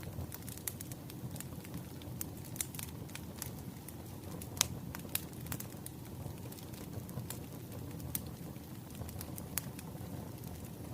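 Wood fire crackling, with a steady low rumble and irregular snaps and pops of burning firewood, one sharper pop about halfway through.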